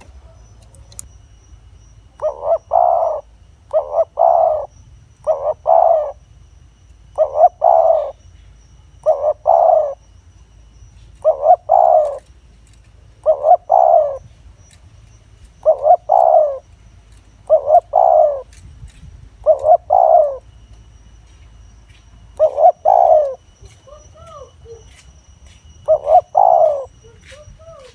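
Spotted dove cooing: short two-part coo phrases repeated about a dozen times, one every one and a half to two seconds, with a longer pause late on. A few faint higher chirps come in near the end.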